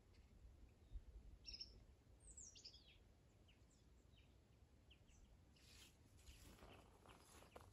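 Faint wild bird chirps, scattered and high, with one quick falling call about two seconds in; faint rustling near the end.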